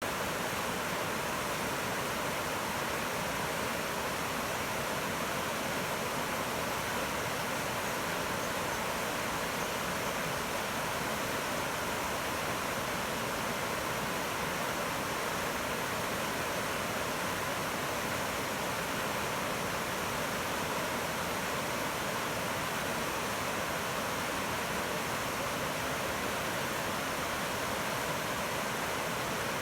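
Rapids of the South Fork Snoqualmie River rushing steadily, an even, unchanging wash of white water.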